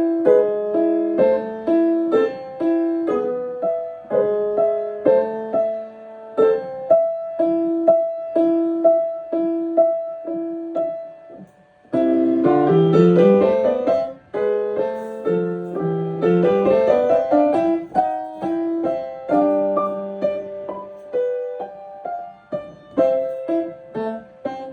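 Piano played solo: repeating patterned figures over low held notes, a brief stop about halfway through, then fast rising scale runs before the repeated figures return.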